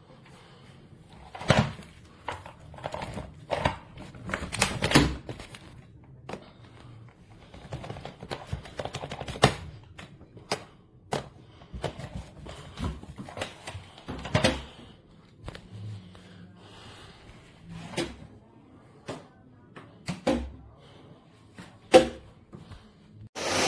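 Irregular clicks and knocks of something hard being handled. Near the end, the Rowenta Power XXL canister vacuum cleaner's motor switches on and runs with a steady loud rushing noise.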